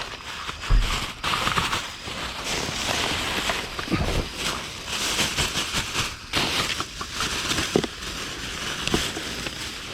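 Rummaging through trash in a dumpster: bags and paper rustling and crackling, with scattered knocks and a few heavier thumps.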